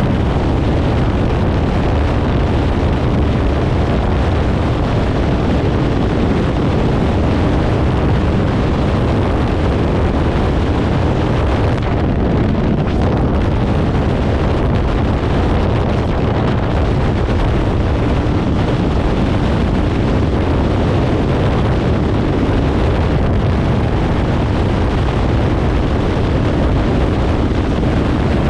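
Kawasaki Ninja 500's parallel-twin engine running through a Leo Vince aftermarket exhaust during a steady ride, with wind buffeting the microphone.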